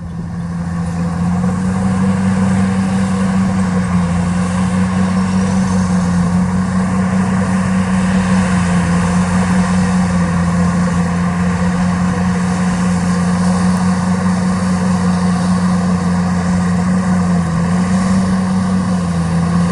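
Heavy diesel engine of earthmoving equipment running steadily, its speed rising and dipping slightly a few times.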